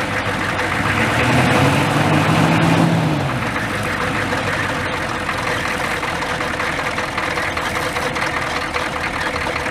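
Old pickup truck engine running steadily at idle, left running to recharge its batteries after a hard start.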